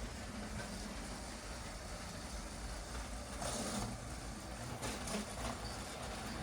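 LEGO train motors and wheels running steadily around plastic LEGO track, with a louder clatter a little past halfway and a few clicks after it.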